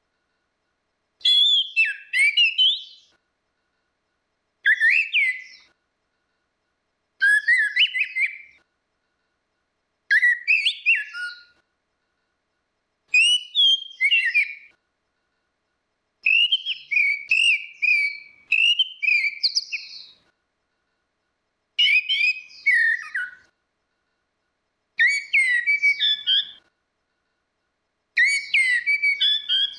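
Orange-headed thrush (anis merah) singing: short whistled, warbling phrases, about one every three seconds, with silence between them.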